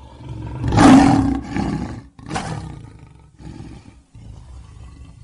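Lion roaring: a loud roar about a second in and a shorter second roar about two and a half seconds in, followed by quieter, lower calls.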